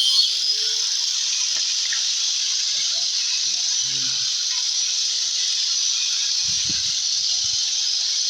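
Electric saw running steadily while cutting the subwoofer hole in a wooden speaker box: a steady high hiss with a hum that rises in pitch just after the start, and a few dull low knocks in the second half.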